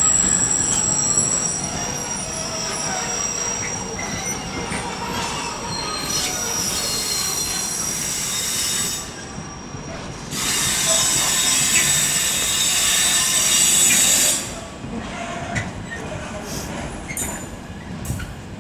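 Intermodal container freight train's wagons rolling slowly past, with high-pitched wheel squeal. A louder, harsher stretch of high screeching runs from about ten to fourteen seconds in.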